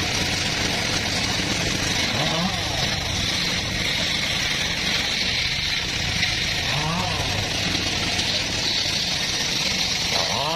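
Engine-driven saw cutting mahogany, running steadily. Its engine pitch swells and falls back about three times.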